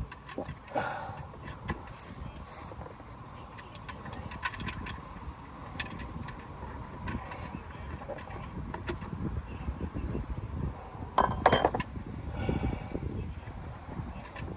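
Scattered metallic clicks and clinks of hand tools at an oil drain plug under a car, with a louder metallic clatter about eleven seconds in, over a low steady rumble.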